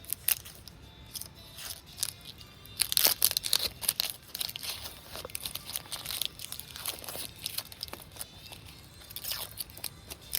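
Irregular crunching and crackling clicks, densest and loudest about three to four seconds in, over quiet background music.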